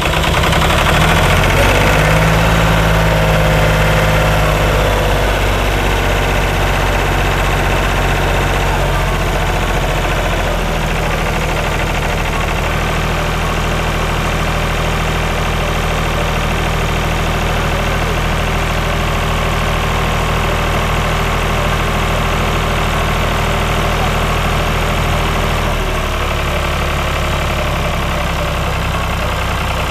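Ford 4600 tractor engine catching and running on after a hard restart from running out of fuel, settling into a steady idle. Its note changes about four-fifths of the way through.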